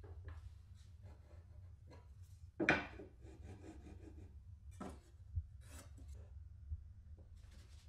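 Irregular short scraping and rubbing strokes of hand work on wood, one louder stroke about two and a half seconds in, over a low steady hum.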